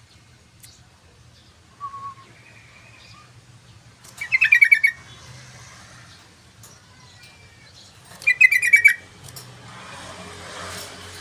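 Yellow-vented bulbul (trucukan) singing: two short, loud, bubbly phrases about four seconds apart, with faint short calls before them. A low rushing noise, like passing traffic, builds near the end.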